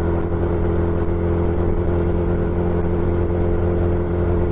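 Suzuki Hayabusa's inline-four engine and exhaust running steadily at a constant cruising speed, its pitch holding level with no revving.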